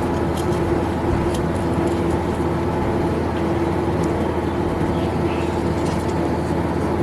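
An electric motor running steadily at high speed after being switched on, with a steady whine over a low hum.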